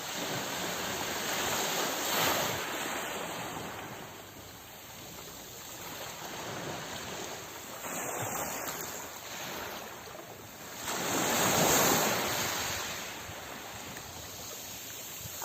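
Sea waves breaking and washing in, in slow surges that rise and fall. The biggest surge comes about three-quarters of the way through.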